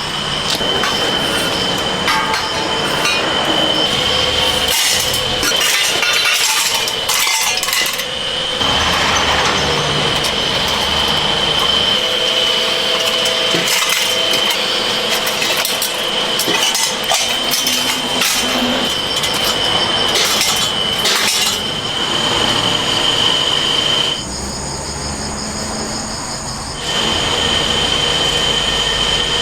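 Metalworking factory noise: machinery running with a steady high whine, with scattered metal clinks and knocks. For about three seconds near the end the whine stops and the noise is quieter, then it returns.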